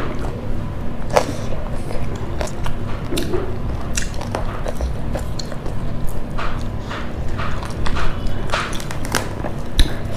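Close-up chewing and mouth clicks of someone eating fried fish and rice by hand. Irregular short wet crackles run through it, with a steady low hum underneath.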